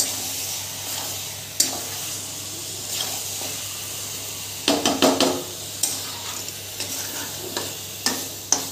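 Chicken pieces frying in masala and oil in a kadai, sizzling steadily while a spatula stirs and turns them, scraping and knocking against the pan; a run of louder scrapes and knocks comes about five seconds in.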